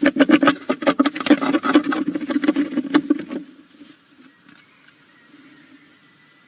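Tawny owl scratching and shuffling inside a wooden nestbox: a fast, dense run of scrapes and knocks that stops about three and a half seconds in, leaving only faint hiss.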